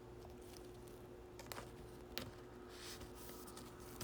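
Almost quiet room tone with a faint steady hum and a couple of soft ticks.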